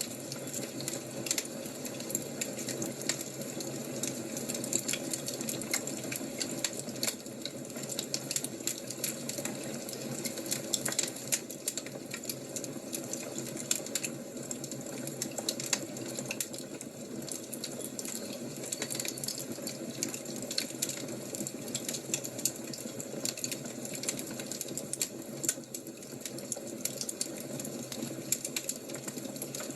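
Wood fire crackling: dense, irregular sharp pops and snaps over a steady hiss.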